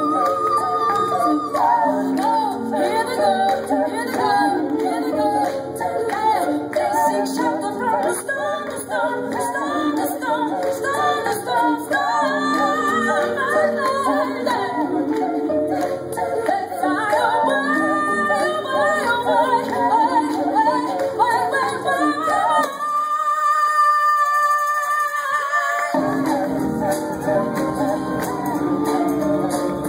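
Live music: a woman singing in layered vocal lines over instrumental backing. About 23 seconds in, the low accompaniment drops out for roughly three seconds, leaving only high held vocal tones, before the full sound comes back.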